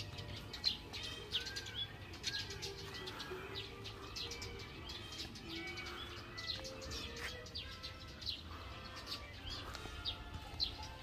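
Birds chirping, many short high calls and little arcing notes coming one after another over a low steady background.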